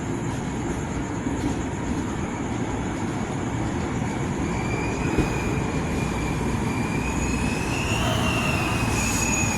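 Train rolling along the rails with a steady rumble, its wheels squealing in a thin high tone that sets in about two seconds in and rises in pitch and loudness near the end.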